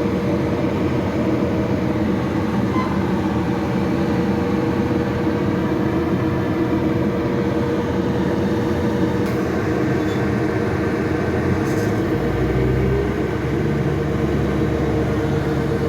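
A passenger train at a station, its engine running with a steady drone and a steady hum; the low rumble changes pitch about twelve seconds in.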